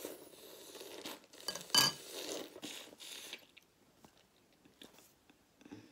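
Close-miked eating sounds: about three and a half seconds of noisy eating with a single sharp, ringing clink near two seconds in, then faint chewing.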